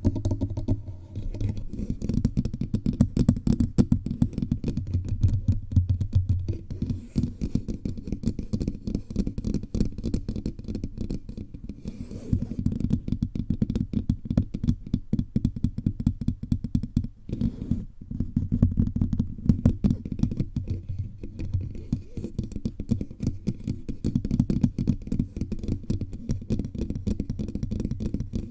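Fingertips tapping rapidly all over a bare microphone, a dense, unbroken stream of low thuds.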